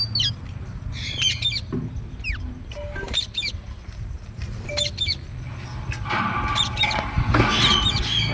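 Green parrots calling: short high chirps and several quick falling squawks, then a denser run of harsh chattering calls about six seconds in.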